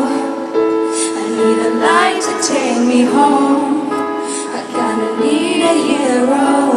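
A female pop singer singing a slow ballad live in an arena, over sustained band or keyboard accompaniment.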